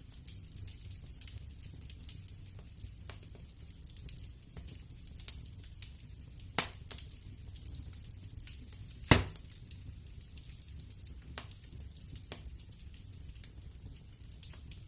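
Wood fire crackling in a fireplace: a steady low rumble of flames with frequent small crackles, and two loud pops about two and a half seconds apart near the middle, the second the louder.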